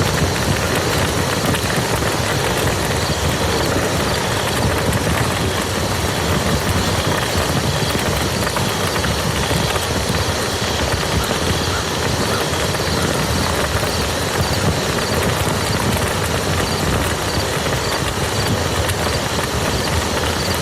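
Steady rain falling on a muddy field, an even, dense patter of drops.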